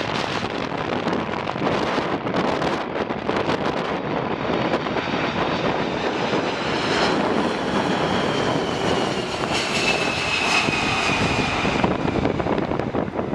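Airliner passing by with a steady rushing engine noise and a high whine that falls slowly in pitch, strongest near the end. Gusty wind buffets the microphone in the first few seconds.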